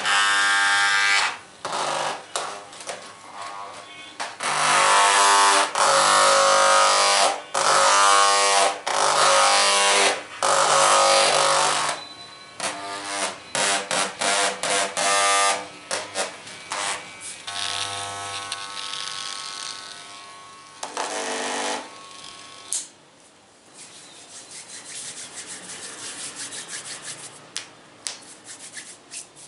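A small electric device buzzing, switched on and off in repeated bursts, some several seconds long. In the last several seconds this gives way to softer scratchy tapping and rubbing.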